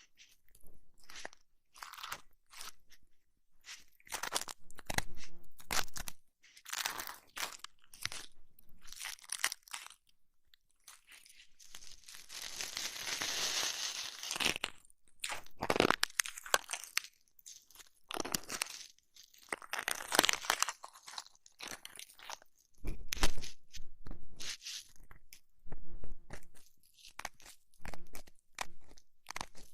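Close-miked ASMR ear massage and cleaning sounds on a microphone: irregular crunchy rubbing and scratching strokes, with a longer hissing rub about halfway through.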